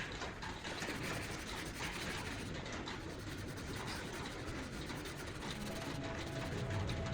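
Steady abrasive rubbing, like sanding or scrubbing a surface by hand, that keeps on at an even level. Faint steady tones come in near the end.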